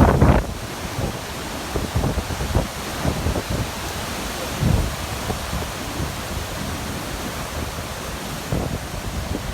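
Strong wind buffeting the microphone over a steady rushing noise, in irregular low gusts, the loudest at the very start and another about four and a half seconds in.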